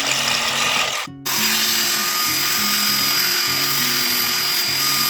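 A small electric power tool running steadily as it cuts off the top of a wooden hatchet handle, with a thin high whine over a loud hiss; it stops briefly about a second in, then starts again. Background music plays underneath.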